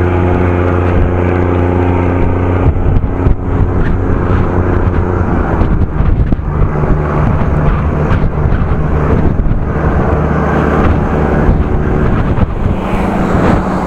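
Diesel engine of a passing motor ship running at full power, a steady drone whose pitch shifts a few times, under gusting wind noise on the microphone.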